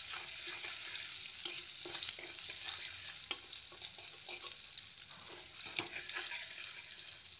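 Chopped green chillies and spices frying in hot mustard oil in a wok: a steady sizzle, with a steel spatula scraping and knocking against the pan as they are stirred.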